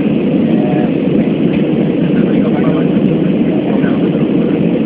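Steady cabin noise inside a jet airliner coming in to land: a loud, even rumble of engines and rushing air.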